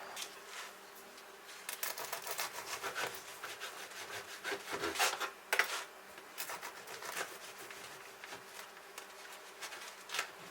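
Irregular rustling, rubbing and small clicks of things being handled close by, loudest around the middle, over a faint steady low hum.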